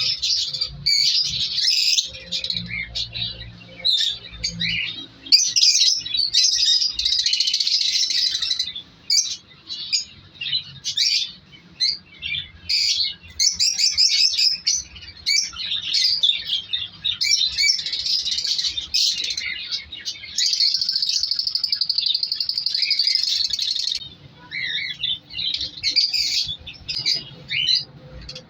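A colony of lovebirds chirping and chattering nonstop, many high-pitched calls overlapping. A steadier buzzing run of calls lasts a few seconds about twenty seconds in.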